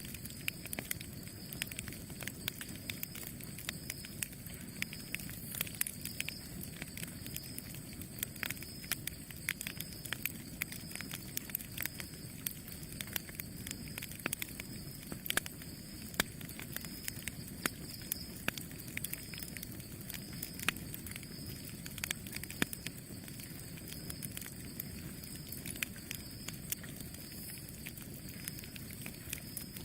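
Campfire burning: a steady low rush of flames with frequent irregular sharp crackles and pops of burning wood.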